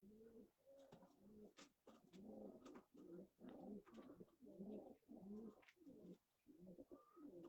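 Faint pigeons cooing, a run of short repeated coos one after another.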